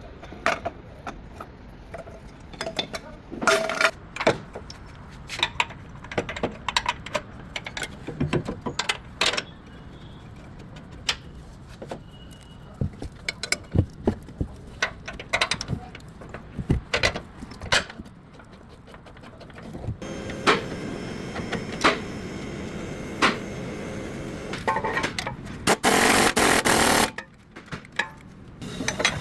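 Scattered metallic clinks and knocks, like hand tools and parts handled during suspension work. About two-thirds of the way through, a steady background hum starts. Near the end, a loud rushing noise lasts about a second.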